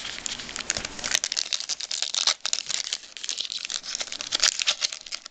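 A trading-card pack's wrapper being crinkled and torn open by hand, a dense run of sharp crackles.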